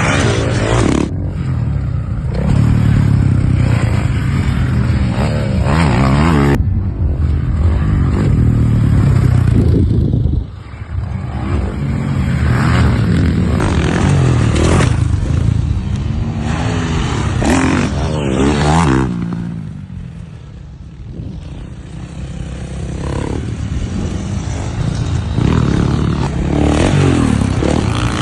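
Off-road motorcycle engines revving hard and accelerating, pitch climbing and falling again and again as the bikes ride and jump, easing off briefly twice.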